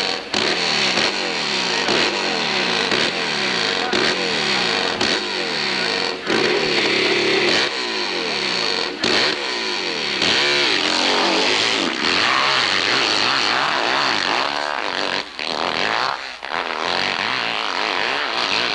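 Hillclimb racing motorcycle engine revving hard, its pitch climbing and dropping over and over as the throttle is worked, with a few brief dips in the sound.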